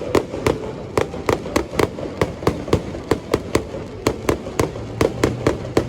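Aerial fireworks going off in a rapid, steady barrage of sharp bangs, about three to four a second, typical of a display's closing finale.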